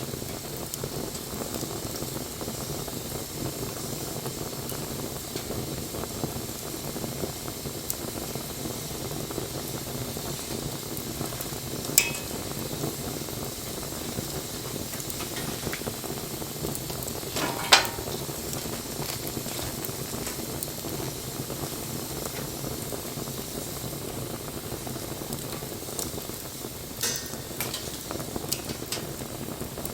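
Wood bonfire burning with a steady crackle and hiss, broken by two sharp pops about 12 and 18 seconds in and a few smaller pops near the end.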